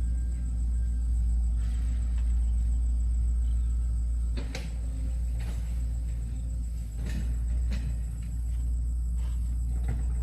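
Steady low mechanical rumble of a running motor or engine, with a faint high whine over it and a few sharp metallic knocks, about halfway through and again a little later.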